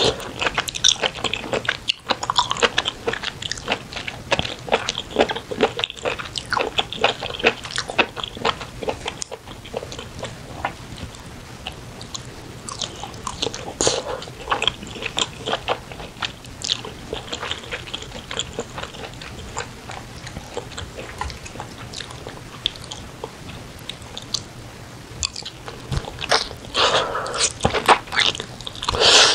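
Close-miked chewing and biting of spicy braised chicken, a steady run of small mouth clicks. The clicks are busiest in the first several seconds and again near the end.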